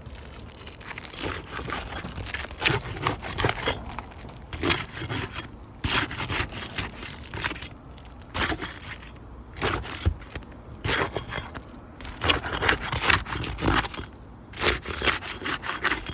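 Asphalt roof shingles being worked loose to remove a damaged shingle and its nails: repeated rough scraping and rasping strokes with short pauses between them.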